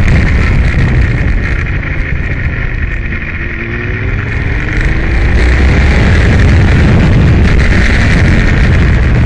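Aprilia Tuono motorcycle running hard at speed. The engine note eases off about two seconds in, falls to its lowest about three and a half seconds in, then climbs again and stays loud to the end.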